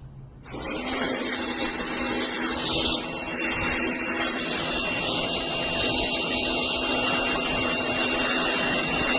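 KVAOK pressure washer running and spraying water: a steady motor-and-pump hum under the hiss of the spray, starting suddenly about half a second in.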